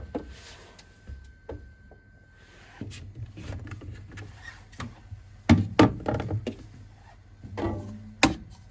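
Knocks, thuds and clicks of things being moved about in a refrigerator: containers set down and drawers or door shelves handled, the loudest knocks about five and a half and eight seconds in.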